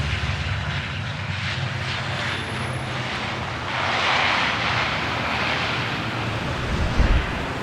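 Steady roar of water, swelling about four seconds in, with a short low thump about seven seconds in.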